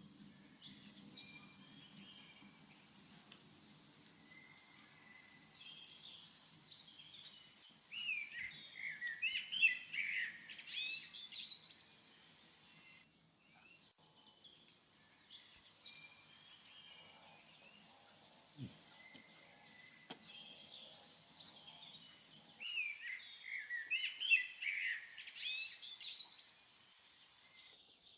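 Several small birds singing and chirping, with two louder spells of rapid song, the first about eight seconds in and the second about twenty-two seconds in. The same stretch of birdsong seems to repeat after about 14 seconds, as in a looped recording.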